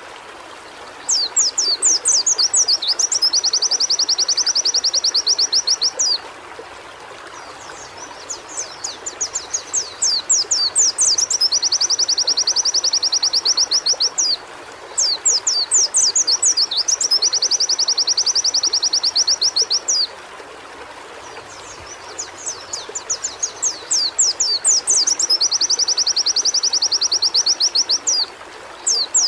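White-eye (pleci) singing in four bouts with short pauses between them. Each bout is a string of quick, high, falling notes running into a long, very fast trill lasting a few seconds. A steady background hiss runs underneath.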